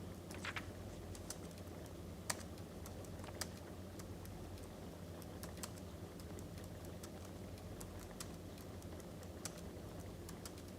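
Wood fire crackling, with irregular sharp pops and clicks over a steady low hum.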